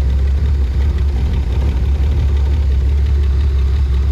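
BMW E36 engine idling steadily after a head gasket replacement, with a hissing noise: a poor idle the owners put down to a vacuum leak.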